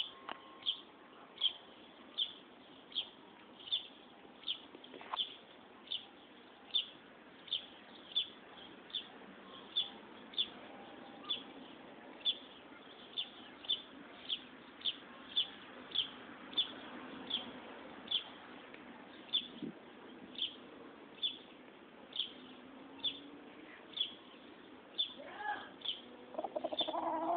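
A small bird chirping one short, high note over and over, about every three-quarters of a second. Near the end a louder, lower call with a rising pitch comes in.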